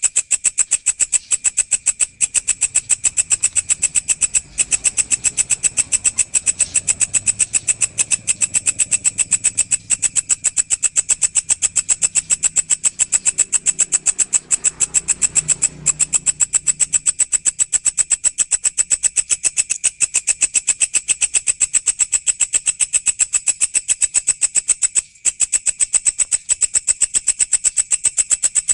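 A walang, a grasshopper-type insect, calling in a fast, even train of high-pitched ticking pulses. The train is broken by a few brief gaps.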